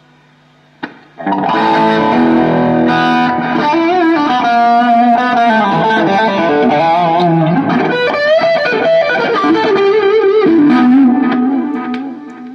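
Electric guitar through distortion and effects playing a single-note lead line with string bends and vibrato, starting just after a click about a second in and fading out near the end, over a steady amplifier hum.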